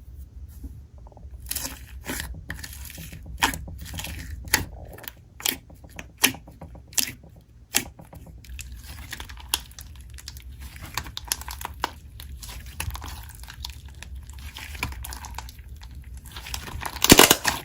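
Slime being squished and pressed by hand, giving irregular sharp pops and clicks over a soft crackle, with a louder burst of crackling near the end.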